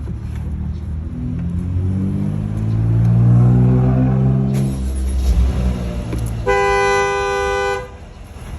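Car engine starts and revs up, its pitch rising then settling. About six and a half seconds in, the car horn sounds one steady blast of a little over a second, then cuts off.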